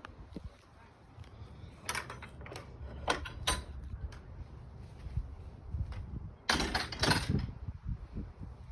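Several sharp clicks and knocks: a few about two to three and a half seconds in, then a louder cluster around six and a half to seven seconds, over a faint low rumble.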